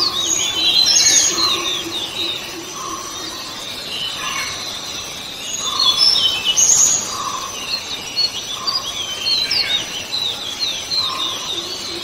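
Several birds chirping and calling at once, a busy chorus of short high notes and trills, with a lower call repeating about every second and a half.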